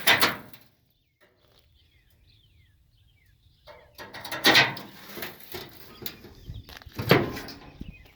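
Faint bird chirps, broken by three loud, short scuffing noises near the start, about halfway through and near the end.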